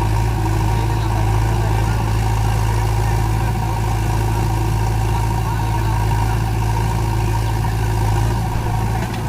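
Diesel engine running at a steady speed, a low, even drone that holds throughout and eases slightly near the end.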